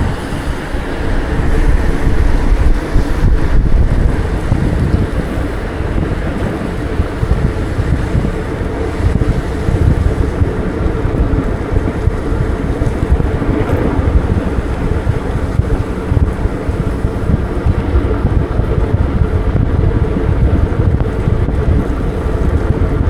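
Wind buffeting the microphone of a moving bike ride, a loud, uneven rumble that never lets up, over faint steady street and traffic noise.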